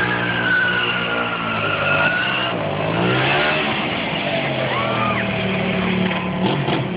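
Sportbike engine running at high revs, its pitch dipping and climbing again about halfway through.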